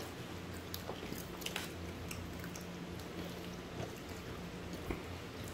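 Children chewing and eating chicken wings, with small scattered clicks and taps, a sharper one near the end, over a steady low hum.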